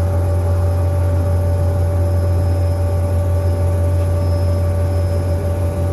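Helicopter cabin noise in flight: a steady, loud low drone from the rotor and engine with a constant higher whine over it.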